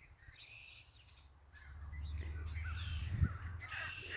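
Seagulls calling overhead as a large flock circles, many short overlapping calls. A low rumble sets in about a second and a half in, with a single thump near the end.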